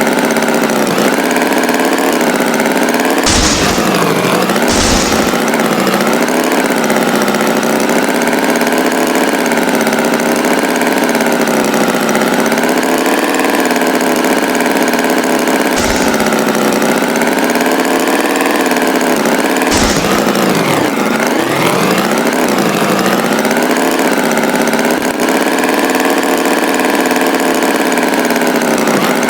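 Tractor engine running steadily, its pitch wavering slowly up and down, with a few short knocks along the way.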